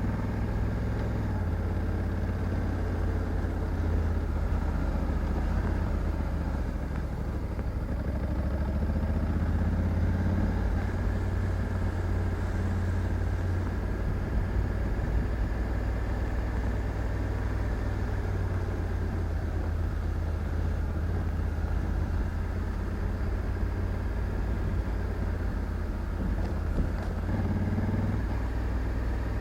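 Honda Africa Twin 1100 DCT's parallel-twin engine running steadily, its low note shifting a little in pitch now and then.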